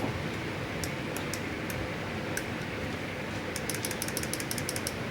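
Shop fans running steadily, with light, sharp clicks: a few scattered ones, then a rapid run of clicking over the last second and a half.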